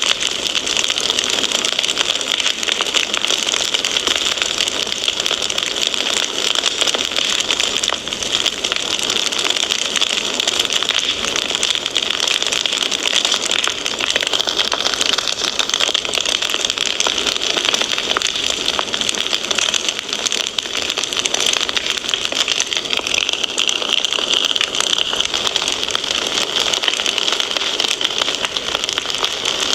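Fire in a fireplace crackling steadily: a dense, even run of small pops over a hiss.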